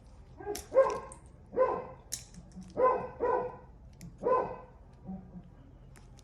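A dog barking several times, short single barks spaced unevenly about a second apart.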